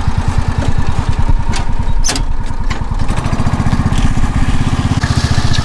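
Tractor engine running steadily with an even, rapid low beat, while it tows a field drag. A few sharp clicks come about two seconds in.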